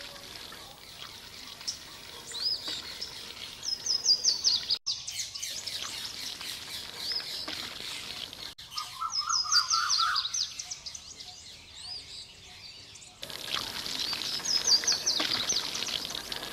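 Birdsong: a quick run of high notes stepping downward comes three times, with scattered chirps between and a lower run of notes about ten seconds in. The background noise cuts out abruptly twice and returns near the end.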